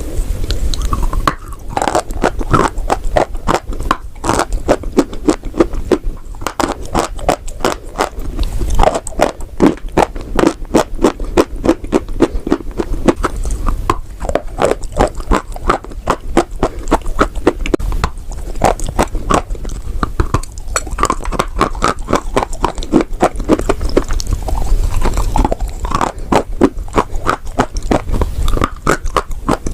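Chalk and clay being bitten and chewed close to the microphone: a continuous run of dry, crackly crunches, several a second.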